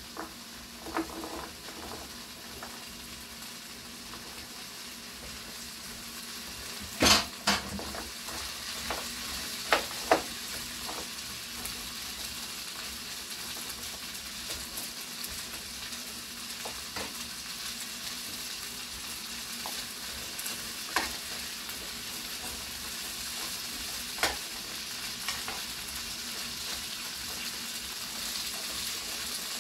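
Green beans sizzling as they fry in a hot frying pan and are stirred with a spoon. A steady hiss is broken by a few sharp clacks of the spoon on the pan, the loudest about seven and ten seconds in.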